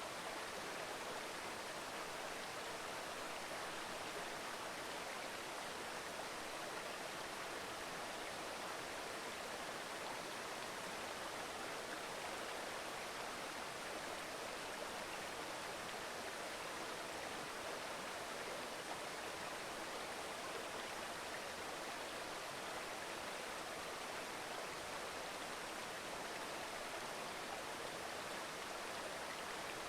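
A mountain stream babbling over rocks, a steady, even rush of running water.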